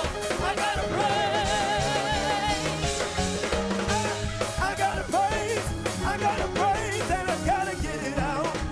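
Live gospel worship music: voices singing with a wide vibrato over a drum kit and bass, keeping a steady beat.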